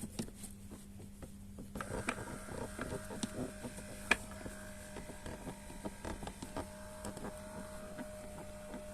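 Electric massager running with a steady motor hum while its massage rollers creak and squeak irregularly, rubbing against the fabric of its cover; the creaking starts up about two seconds in. The squeak comes from friction of the rollers on the cover fabric.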